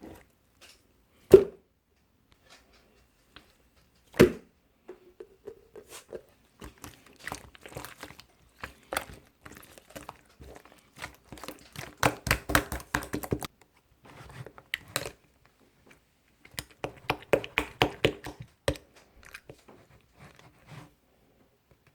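Handling noises: two sharp knocks, then two long bouts of rapid clicking and crinkling, dense in the middle and again near the end.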